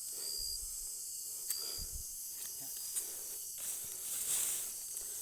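Steady high-pitched chorus of night insects, with a few short chirps, some soft low thumps and a brief hiss about four seconds in.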